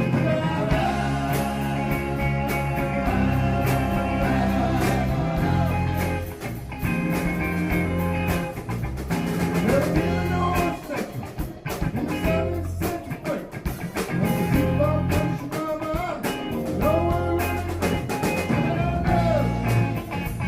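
Rock band playing: electric guitars, bass guitar and drum kit in a steady groove, with a lead line that bends up and down in pitch several times.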